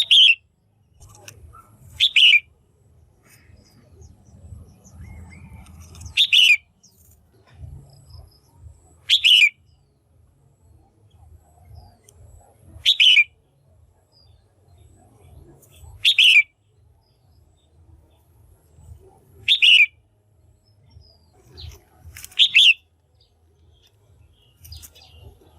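Female red-whiskered bulbul calling, a short sharp falling note repeated about eight times, roughly every three seconds. It is the call of the kind keepers use to stir up males or to pair birds.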